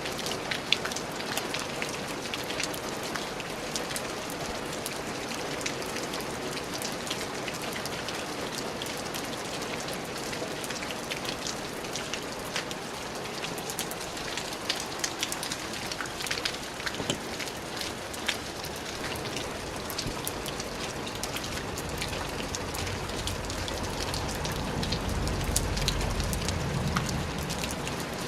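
Steady rain falling, with many individual drops ticking sharply on a hard surface. A low rumble swells up and fades away again near the end.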